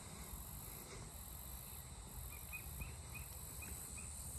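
Faint outdoor insect chorus: a steady high-pitched buzzing that swells and dips at a regular pace. From about halfway through, a series of short, quiet chirps repeats a few times a second, with a low rumble of wind underneath.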